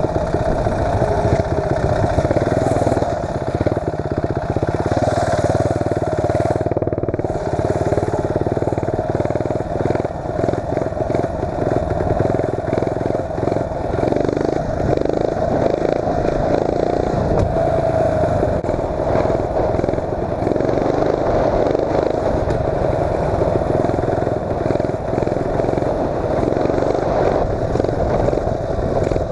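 Mini bike's 8 hp Tecumseh single-cylinder four-stroke engine running continuously under throttle while being ridden.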